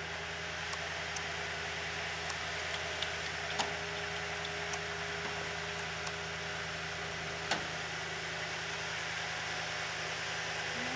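Toyota Tundra's 5.7-litre V8 idling steadily, with a few short sharp clicks over it, the loudest about two-thirds of the way through.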